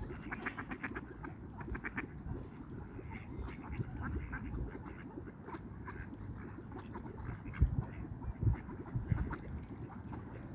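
Ducks giving short quacking calls: a quick run of them in the first couple of seconds, then scattered ones, with a couple of low thumps about eight seconds in.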